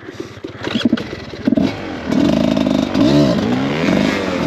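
Dirt bike engine being revved: a few short throttle blips, then the engine pulls harder and holds a steady note from about two seconds in, with a quick rise and fall in pitch around three seconds.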